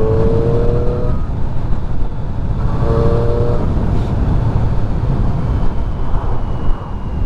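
Triumph 675 inline-three motorcycle engine running at steady speed under way, mixed with heavy wind rush on the rider's microphone. A steady engine tone stands out twice, each about a second long: at the start and about three seconds in.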